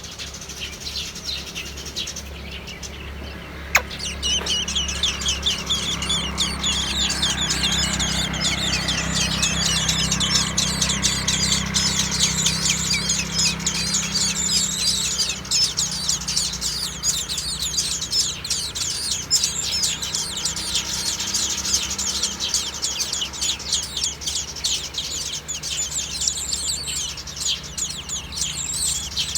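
Young birds chirping rapidly and continuously as they beg to be fed, starting right after a sharp click about four seconds in.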